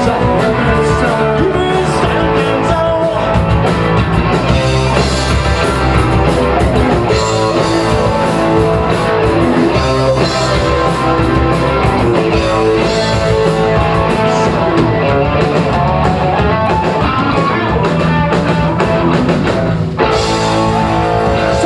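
Live rock band playing loud and steady, with electric guitar and drums. There is a brief break just before the end, then the playing carries on.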